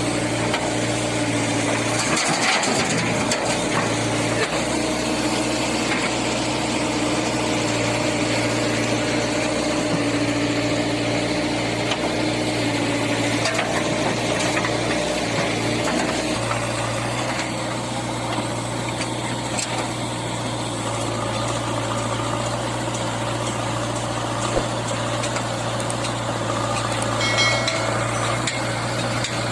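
Diesel engine of a backhoe loader running steadily at work, a constant low hum with a higher wavering tone that fades out about halfway through.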